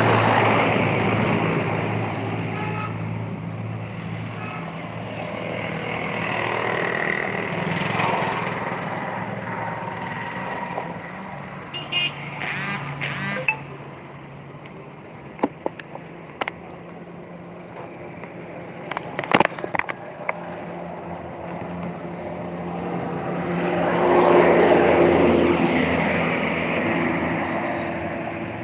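Road vehicles passing, their noise swelling and fading twice, with a few short sharp clicks in the middle.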